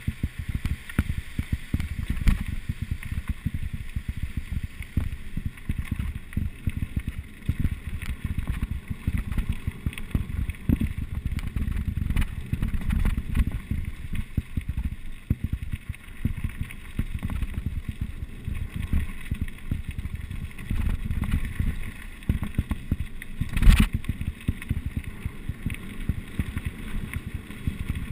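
Mountain bike riding down a rough trail: continuous rattling and knocking from the bike over the bumps, with wind buffeting the microphone and one hard thump near the end.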